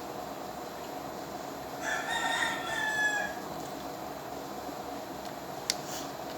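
A rooster crowing once, about two seconds in, over a steady hum, with a couple of sharp clicks near the end.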